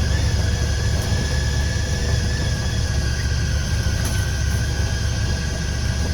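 A vehicle driving down a rough driveway: a steady low rumble of engine and tyres, with a faint steady whine above it.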